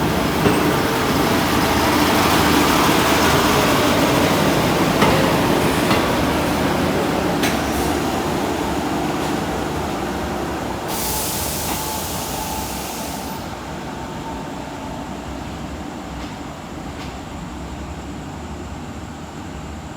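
A train rolling along the station tracks, its noise fading steadily as it moves away, with a few clanks in the first half. About eleven seconds in, a loud hiss lasts a couple of seconds.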